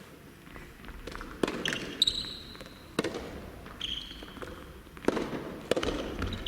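Soft tennis rally: the rubber ball is struck by rackets and bounces on the court, giving a series of sharp pops about a second apart, with a few short high squeaks between them.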